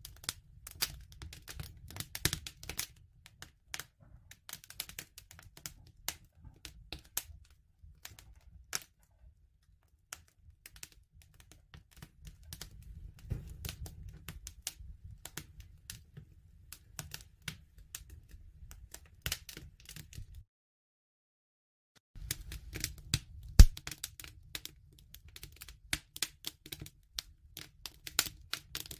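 Wood fire crackling: irregular snaps and pops over a low rumble of burning. About two-thirds through, the sound drops out completely for nearly two seconds, then resumes with one sharp, louder pop.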